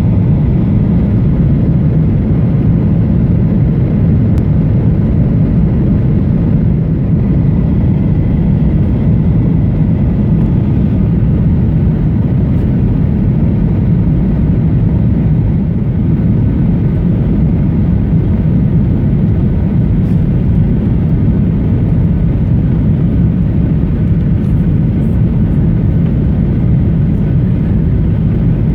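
Steady cabin noise of a Boeing 737-800 in flight, heard from inside the cabin: a deep rumble of airflow and CFM56 engines that holds an even level, with no thump or surge.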